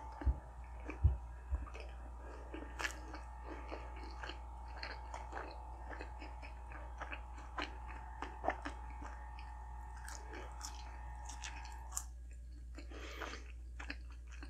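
Close-up chewing of a Big Mac made with Quarter Pounder patties: a continuous run of small wet mouth clicks and smacks, with a few louder bites about a second in.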